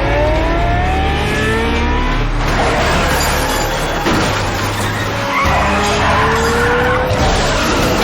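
Car chase film sound: car engines revving with rising pitch and tyres screeching and skidding, over a film score.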